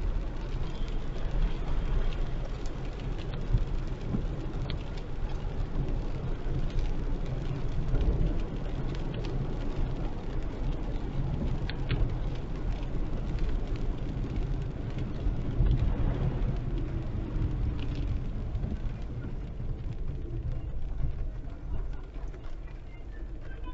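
Heavy rain falling on a moving car, with steady low road and tyre noise on the wet road. The noise eases slightly near the end.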